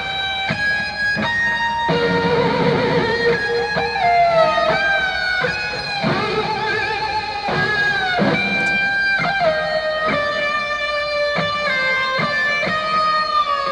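Electric guitar playing a lead melody of held notes, with string bends and vibrato.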